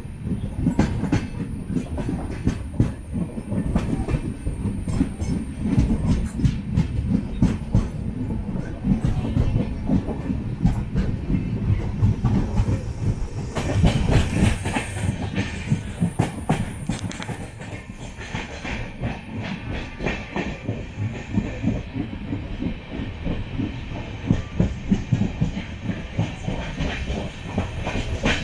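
Train running on rails: steel wheels clattering rapidly over the track over a heavy low rumble, with a short rushing hiss about halfway through.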